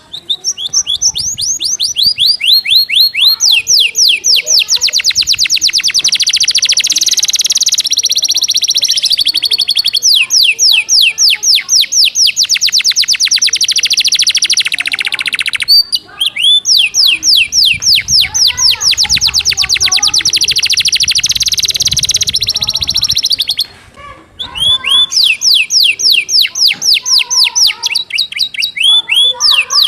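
Domestic canary singing a loud, fast, tightly packed song of rapidly repeated sweeping notes, tutored with gelatik batu (cinereous tit) phrases. The song breaks off briefly about halfway through and again about two-thirds through.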